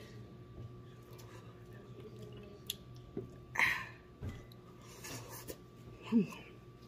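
A person chewing and biting into crispy-battered air-fried chicken, with small mouth and hand clicks and one loud, crunchy bite about halfway through.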